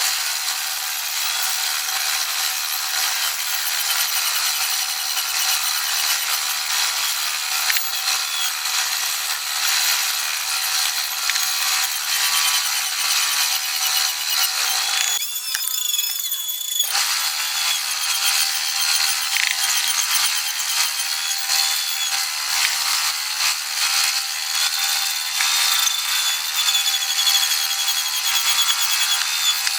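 A woodworking power tool running and cutting wood, a steady high-pitched noise that changes briefly about halfway through.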